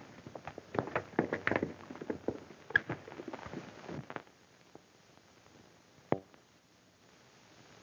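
Irregular clattering steps on hard ground, a quick run of knocks that stops about four seconds in, then a single sharp knock near six seconds.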